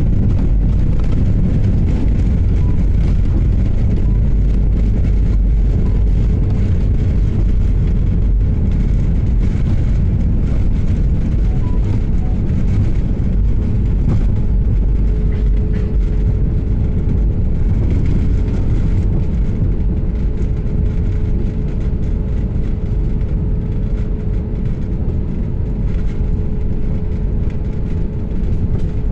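Jet airliner engines and airflow heard from inside the cabin: a loud, steady rumble with a steady hum, easing slightly in level about two-thirds of the way through.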